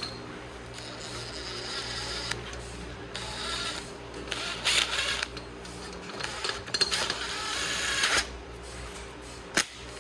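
Hand-tool work on a motorcycle front fork: several irregular stretches of metal-on-metal mechanical noise over a steady low hum, with a sharp click near the end.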